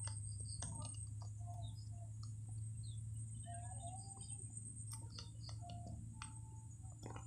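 Short chirping bird calls in the background over a steady low hum, with scattered light clicks and crinkles of seasoning sachets being squeezed out.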